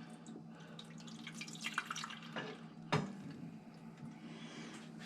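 Water trickling and dripping as it is poured into the top of a commercial filter coffee machine, with a single sharp knock about three seconds in.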